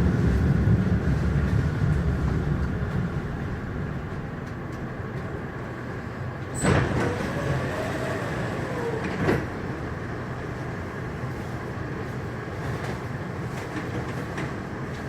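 Frankfurt U-Bahn light-rail train heard from inside the car as it runs between stations: a steady rumble of wheels on track that grows quieter over the first few seconds. Two sharp knocks come about two and a half seconds apart near the middle, with a faint gliding tone between them.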